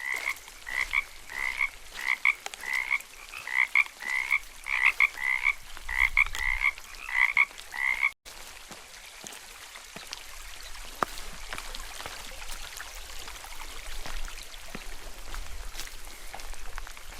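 A frog croaking repeatedly, about two calls a second, each with a higher and a lower part. After a sudden break about eight seconds in, soft steady rain with scattered drop ticks.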